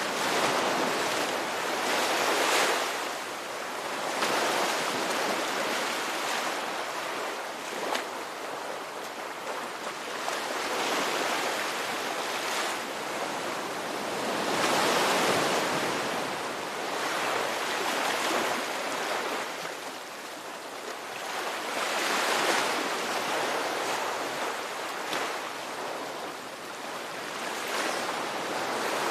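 Ocean waves surging and washing back, a rushing hiss that swells and ebbs every three to four seconds.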